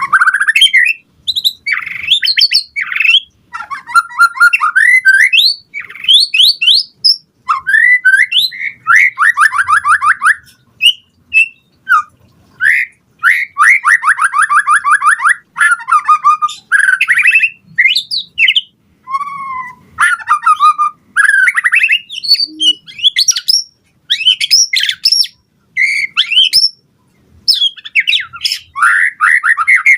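White-rumped shama singing energetically: a continuous run of varied, loud phrases of sweeping whistles and fast, rattling trills, broken by short pauses.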